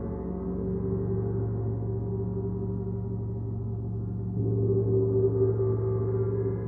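Gong sounding in a sound bath: a sustained low drone with many overtones, swelling louder a little over four seconds in.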